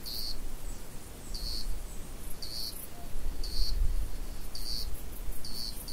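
Cricket chirping in short, high-pitched bursts about once a second, over a low rumble that swells in the middle.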